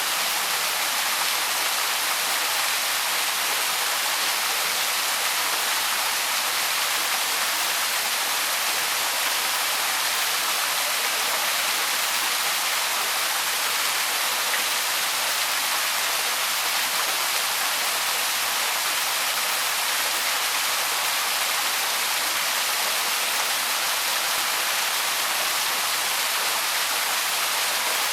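Small waterfall splashing steadily, an even rush of falling water with no change throughout.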